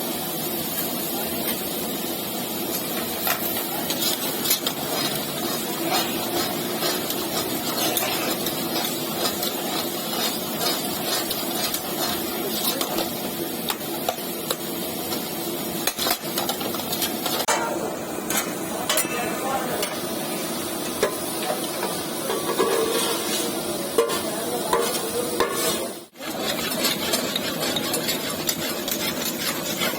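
Mutton brain frying in butter in a karahi, sizzling steadily, while a metal utensil stirs and scrapes, clinking against the pan now and then.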